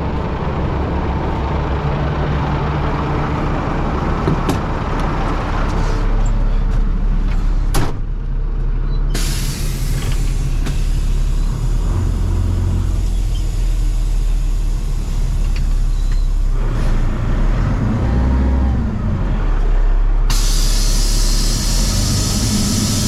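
Dump truck engine running steadily, with a hiss that starts suddenly about nine seconds in and a louder hiss from about twenty seconds in.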